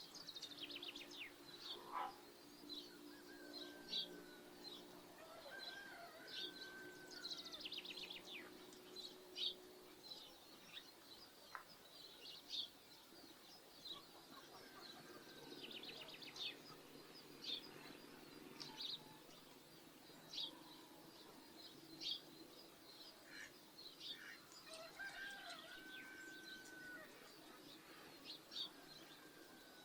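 Small birds chirping and trilling over and over, faint, with occasional calls from farmyard poultry.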